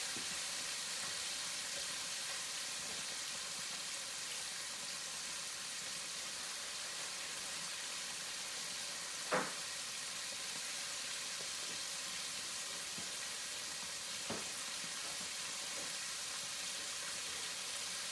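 Chicken wings frying in hot grease: a steady sizzle, with a sharp click about halfway through and a fainter one a few seconds later.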